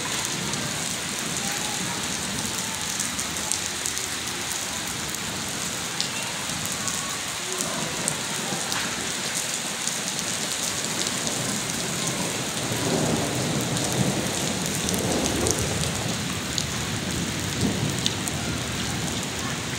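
Heavy monsoon rain pouring steadily: a dense hiss of drops hitting the ground and standing water. A low rumble swells and fades in the second half.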